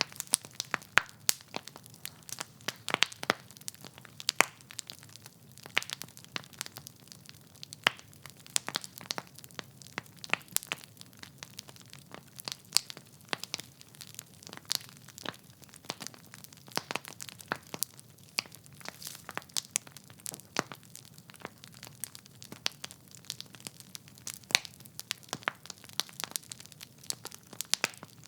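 Wood fire burning in a fireplace: logs crackling and popping with many irregular sharp snaps, over a low steady rumble of flame.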